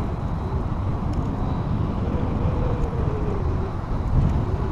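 Steady low wind rumble on the microphone of a camera carried on a moving bicycle, with the general noise of riding along a path.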